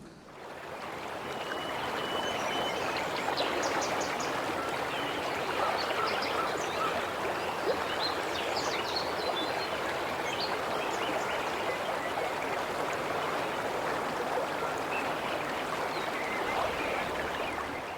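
River water rushing steadily over stones, a constant even rush.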